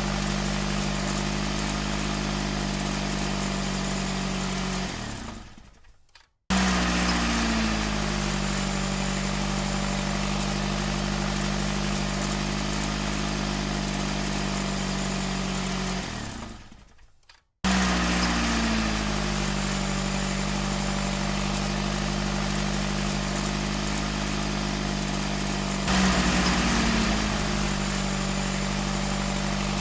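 A recorded truck engine idling steadily. It fades out to silence twice, about five and sixteen seconds in, and each time comes back abruptly with a pitch that drops as it settles into idle, like an engine sound clip being replayed. It swells briefly louder a little before the end.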